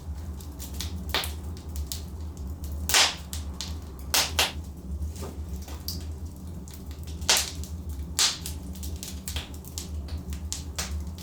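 Logs burning in a fireplace, crackling with irregular sharp pops and snaps, the loudest about 3 and 7 seconds in, over a steady low rumble of the fire.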